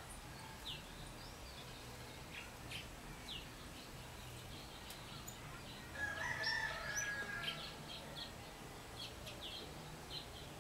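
Small wild songbirds chirping with scattered short calls, and a rooster crowing once about six seconds in, the loudest sound.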